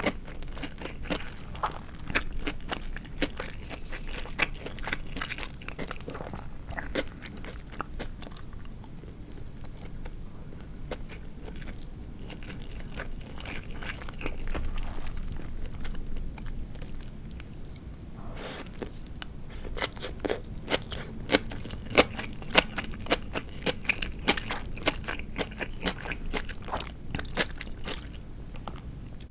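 A person chewing crispy deep-fried marinated chicken (tatsuta-age) close to the microphone, with many small crisp crunches throughout and louder, more frequent crunches in the second half.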